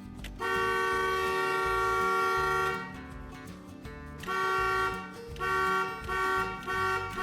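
Car horn honking: one long blast of about two and a half seconds, then, after a pause, four shorter toots.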